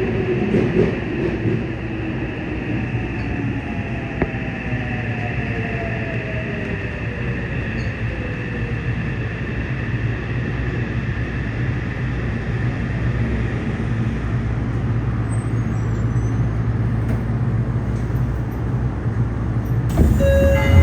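Yokohama Municipal Subway 3000N train running, heard from inside the car. Its Mitsubishi IGBT-VVVF inverter and traction motors give a whine whose tones glide down in pitch over the first several seconds, over steady wheel and running noise.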